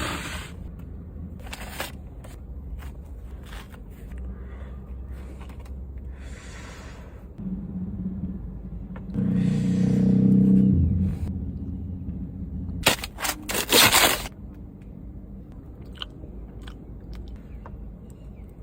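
Someone eating: crunching and chewing sounds over a low steady hum, with a loud cluster of sharp crunching or rustling noises about 13 seconds in.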